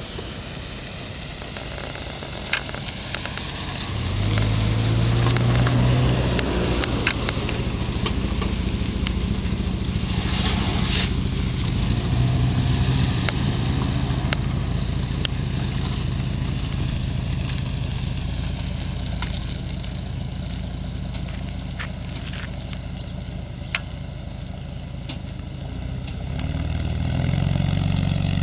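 Engine of a customized 1954 Chevrolet running at low speed as the car rolls by, a steady low-pitched note that gets louder about four seconds in and again near the end as it pulls away.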